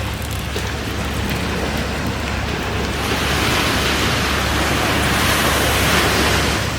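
Food sizzling in a frying pan over a campfire: a steady hiss that grows louder about three seconds in and eases near the end.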